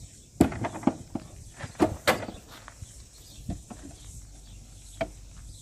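A handful of sharp knocks and clatters at irregular intervals, the loudest about two seconds in and a last single knock near the end.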